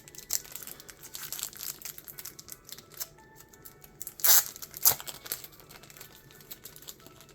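Plastic packaging of a pack of trading-card sleeves crinkling and being torn open, with two louder tears about four and five seconds in.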